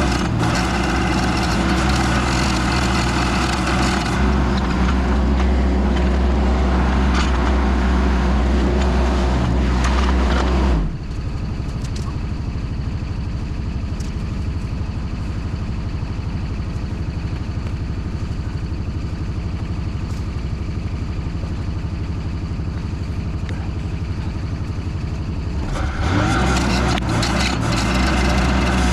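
Case TL100 mini skid steer engine running hard under the load of a stump grinder attachment. About a third of the way in it drops to a quieter, lower running, and it rises back to the hard running near the end.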